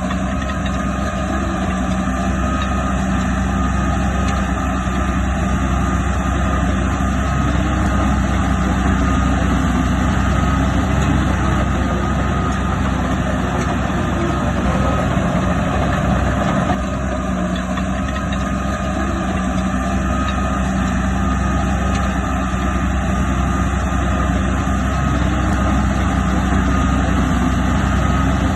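Heavy diesel engine of earthmoving machinery running steadily, with a slight change in its sound about 17 seconds in.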